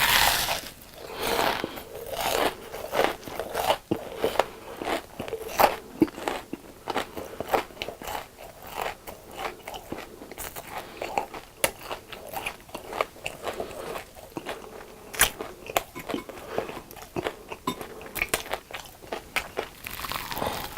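Close-miked crunching and chewing of crisp fried food in a mukbang: a continuous run of sharp crackly bites and chews, with louder bites near the start and at the end.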